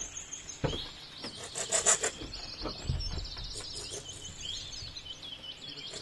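A bird's high, rapid trills repeated in short bouts. About a second in comes a cluster of rustles and knocks from handling gear at the van, loudest near two seconds.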